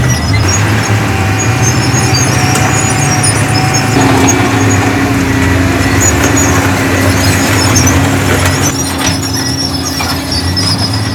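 Heavy diesel earthmoving machinery running steadily, with a sustained squeal over the engine: a higher-pitched squeal in the first few seconds, then a lower one from about four seconds in.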